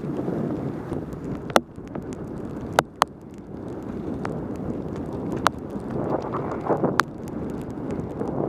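Wind rushing over a helmet camera's microphone on a fast mountain-bike descent in the rain, with several sharp clicks scattered through it.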